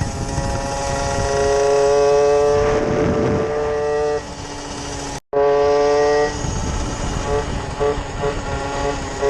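Small pit bike engine running at a steady, fairly high pitch while riding, with wind rumble on the microphone. It cuts out abruptly for a moment just past the middle, and in the last few seconds the engine note comes in short on-off pulses as the throttle is worked.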